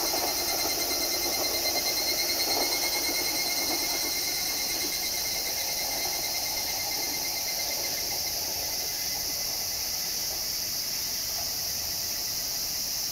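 Izukyū electric train running away through the tunnel, its rumble and a pulsing high whine fading out over the first half. A steady high hiss lies under it throughout.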